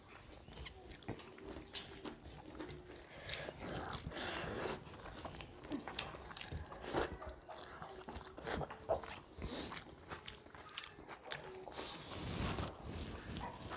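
Close-miked eating of rice and curry by hand: chewing and wet mouth sounds, with fingers mixing rice on steel plates. Scattered small clicks, and a couple of sharper ones past the middle.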